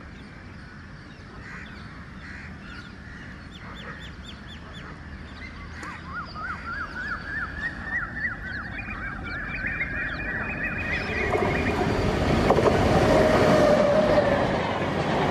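An express train hauled by a WAP-7 electric locomotive approaches and passes close by. Its rumble and clatter grow louder and take over from about eleven seconds in. Over the approach, a bird calls in quick, repeated chirps.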